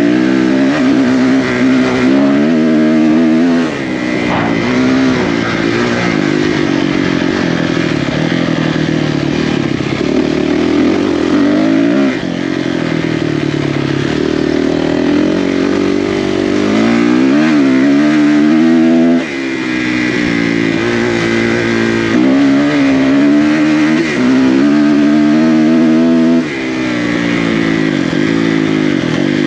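Single-cylinder four-stroke off-road engine ridden hard, its pitch climbing and falling as the rider works the throttle through the gears, with a short drop in sound four times where the throttle is chopped.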